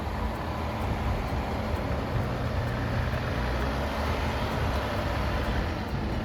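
Off-road 4x4's engine running low and steady as it crawls over rocks, a little louder between about two and four seconds in.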